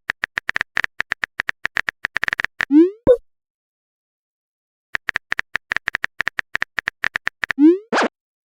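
Phone-keyboard typing clicks in quick runs, each run ending in a short rising pop, the chat app's message-sent sound. The pattern comes twice with a silent gap between, and a brief burst of noise follows the second pop near the end.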